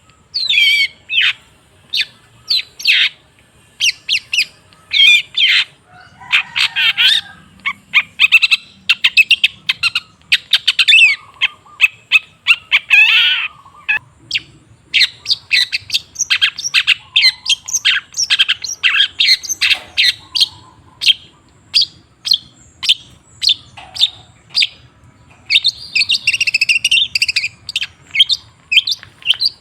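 Long-tailed shrike (cendet) singing: a continuous stream of short, sharp chirps and whistled notes, broken by denser chattering runs several times.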